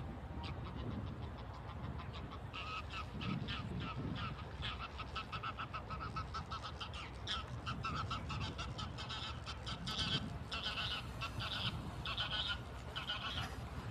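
A flock of waterfowl giving rapid, chattering calls that grow denser and louder a couple of seconds in, over a steady low rumble.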